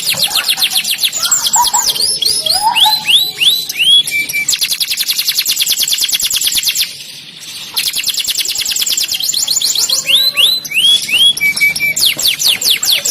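Domestic canary singing: fast trills of repeated falling notes, broken by slower swooping whistles, with a brief pause about seven seconds in.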